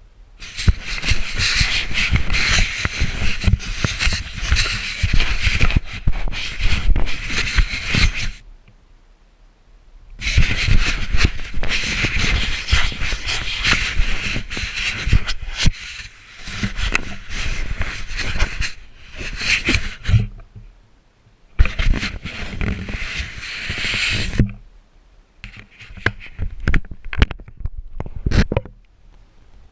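Muffled rubbing and scraping noise of a GoPro's waterproof housing being moved around in pond water, in three long stretches, then scattered clicks and knocks near the end.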